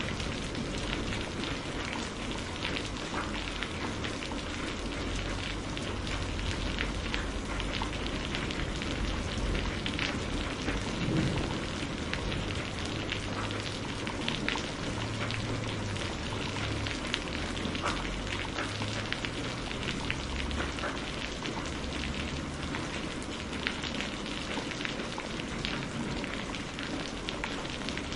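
Steady rain falling on a surface, with many individual drops ticking through it and a low rumble underneath.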